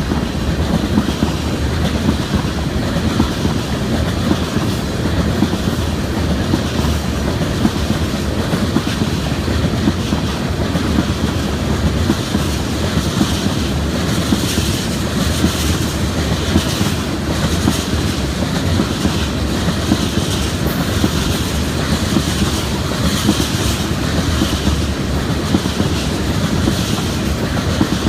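Freight train cars rolling past close by, a loud steady rumble with the wheels clicking over the rail joints.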